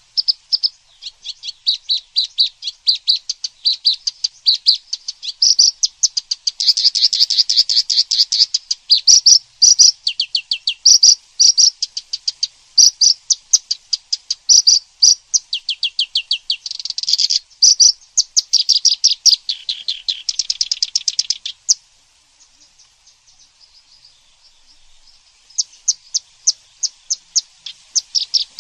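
Songbird singing a fast, loud chatter of sharp, high repeated notes in long runs. It breaks off about three quarters of the way through, then starts again near the end with more evenly spaced notes.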